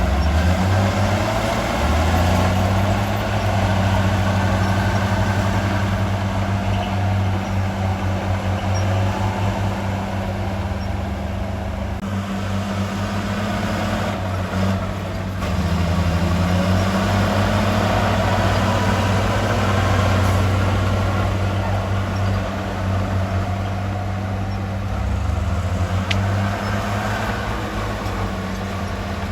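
Heavy diesel engine of earthmoving machinery running steadily, its pitch dropping and rising a few times as the engine speed changes.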